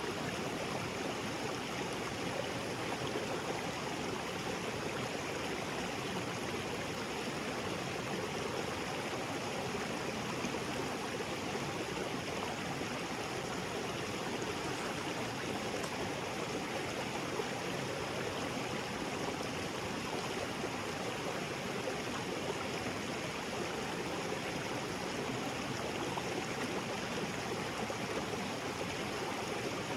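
Small waterfall and creek water splashing and flowing over rocks, a steady, unbroken rush.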